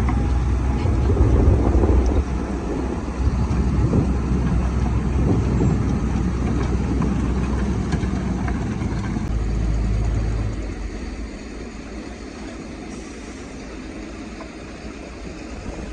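Caterpillar bulldozer's diesel engine running hard under load while the dozer pushes rock, then easing to a quieter, steadier run about ten and a half seconds in.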